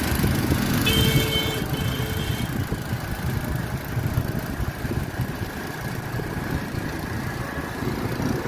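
Steady low rumble of vehicle engines. About a second in, a brief pitched tone sounds over it for a second or so.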